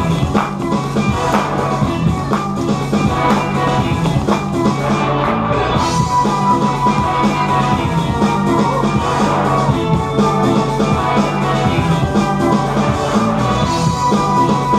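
Rock-style band music with drum kit, bass and guitar, a steady beat throughout and a long held note coming in about six seconds in.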